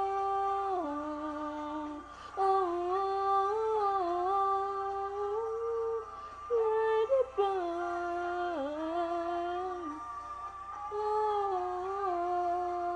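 A girl's voice singing long held, wordless notes that slide and dip between pitches, with brief breaks about two and six seconds in.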